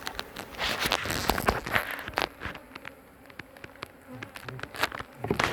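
Honeybees buzzing around an open hive from a colony the keeper calls feisty and wanting to sting, with scattered clicks and knocks. The buzzing eases off in the middle and picks up again.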